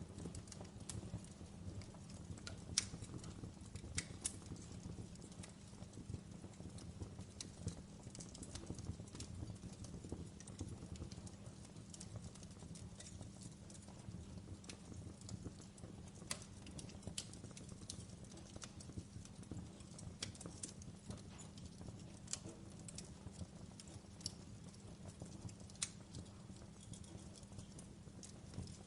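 Wood fire burning in a fireplace: a steady low rumble with irregular crackles and sharp pops, the loudest pops about three and four seconds in.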